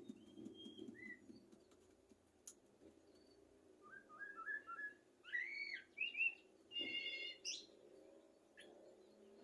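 Common blackbird singing: short fluty whistled phrases, a quick run of notes about four seconds in, then louder rising-and-falling phrases ending in a fast, high twitter.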